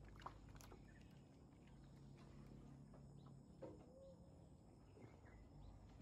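Near silence: faint outdoor ambience with a few short bird calls.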